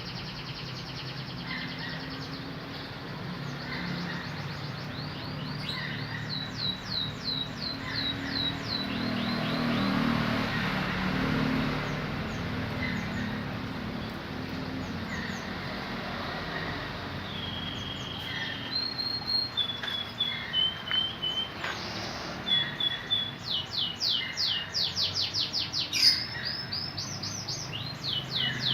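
Domestic canary singing in bursts: fast trills of quickly repeated chirps, and in the middle a run of short, level whistled notes, from a canary still learning its full song. A steady low rumble runs underneath, and there is a single sharp click near the end.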